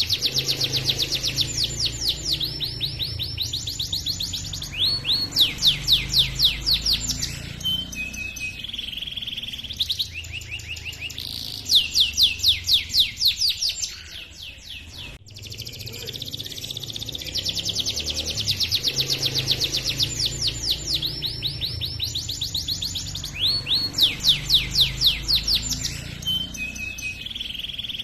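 Domestic canary singing long rolling trills: rapid runs of repeated high chirps broken by short pauses and a few held notes. The same run of song starts over about halfway through, as in a looped recording.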